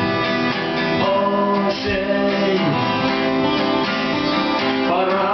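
Acoustic guitars strumming a song, with a man's voice singing held, gliding notes over them.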